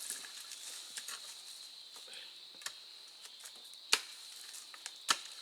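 Insects singing in a steady high drone, with a few sharp clicks, the two loudest about four and five seconds in.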